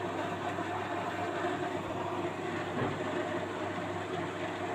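Washing machine running with a steady hum and whir, shaking during the spin; the owner suspects a problem with the drum's suspension springs.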